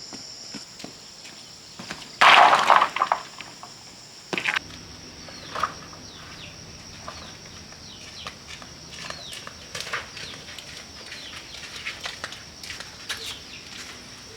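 Steady high-pitched drone of forest insects, with a loud rustling burst about two seconds in, a sharp knock a couple of seconds later, and scattered short falling chirps.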